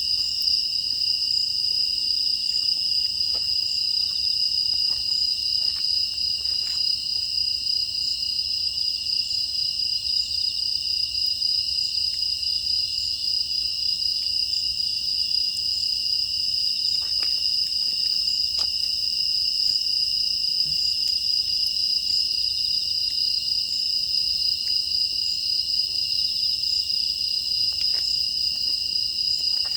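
A steady chorus of grass insects such as crickets, chirring continuously in a few high-pitched layers, with a few faint clicks scattered through.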